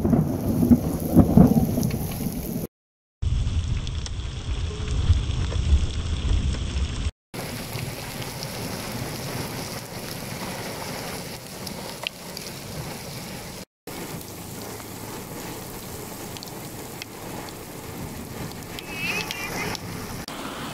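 Heavy rain pouring onto flooded ground and puddles as a steady hiss, broken by brief silences about 3, 7 and 14 seconds in. For the first seven seconds a loud low rumble runs under the rain.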